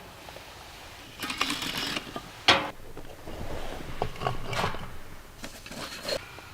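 Irregular rustling and clicking from something being handled, with one sharp click about two and a half seconds in.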